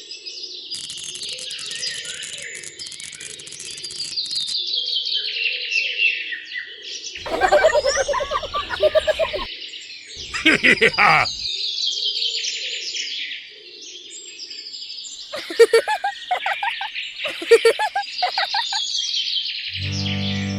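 Many small birds chirping and twittering continuously, with a few louder, lower calls standing out around the middle. Music comes in just before the end.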